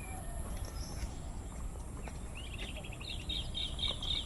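A bird chirping rapidly: a high, quick run of short repeated notes that begins a little past halfway through, over a low steady rumble.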